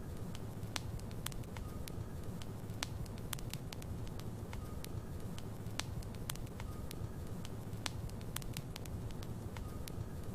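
Wood fire burning in a fireplace: a steady low rumble of flames with frequent sharp crackles and pops from the burning logs, and a faint brief whistle now and then.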